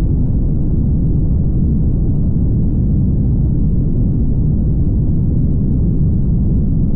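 Steady low rumble of road and tyre noise from a car driving, even throughout with no separate events.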